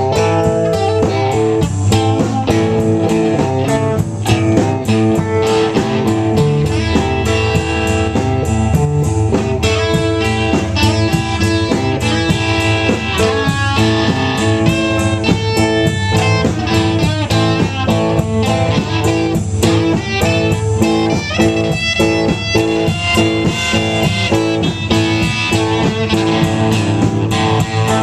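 Blues-style music led by electric guitar, plucked and strummed, with no singing.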